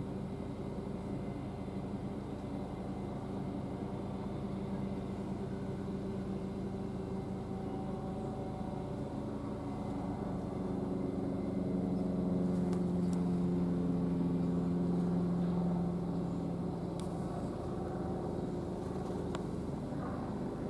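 Diesel engine of a Class 66 freight locomotive running with a steady, even drone, growing louder about halfway through as the freight train draws near, then easing slightly.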